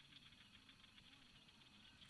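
Near silence with faint, steady insect chirping, pulsing evenly a few times a second.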